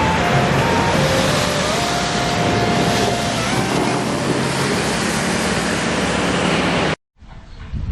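Loud, steady rushing and rumbling noise of a running vehicle, which cuts off suddenly about seven seconds in.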